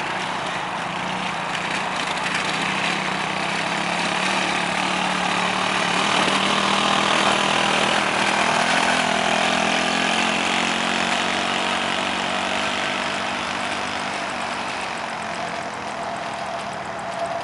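Quad bike engine running steadily, getting louder toward the middle and easing off near the end.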